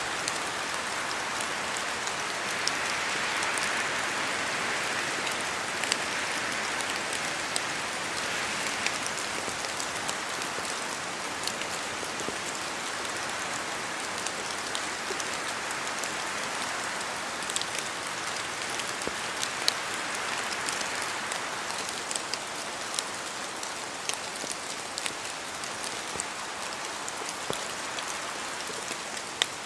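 Steady rain falling through forest trees, with big drops from the leaves landing in scattered sharp taps. The hiss swells gently a few seconds in and again around the middle, as wind stirs the trees.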